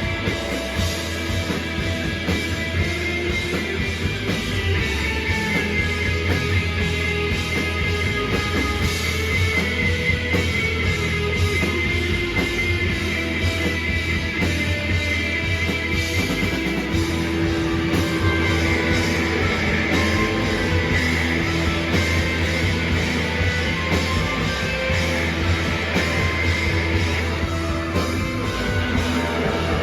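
A rock band playing live: a loud, dense, steady wall of electric guitar, bass and drums.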